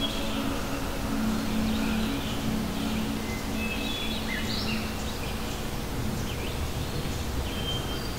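Small birds chirping and calling in short high notes and quick glides over a steady background hiss, with a low held tone fading out over the first few seconds.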